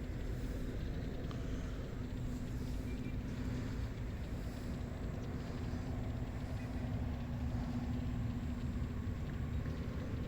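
Steady low outdoor rumble of wind in the open paddy field, with a faint steady hum running under it.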